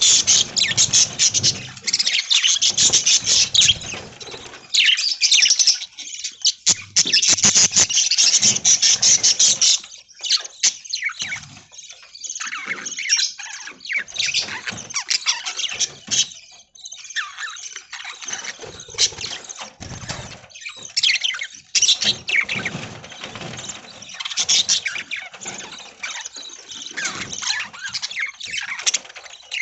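A flock of budgerigars chattering and chirping continuously, with busy stretches of rapid, overlapping high-pitched calls.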